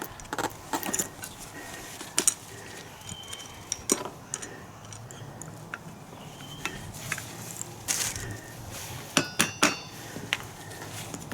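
Metal hand tools and small parts being handled, with scattered knocks and clicks. A quick run of ringing metallic clinks comes about nine seconds in.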